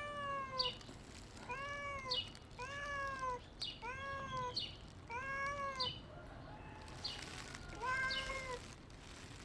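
A domestic cat meowing over and over, long drawn-out meows about once a second, growing fainter after about six seconds.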